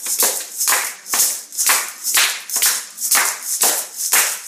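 Rhythmic hand percussion: hissy clap- or shaker-like strokes in a steady beat, about two strong ones a second with lighter ones between.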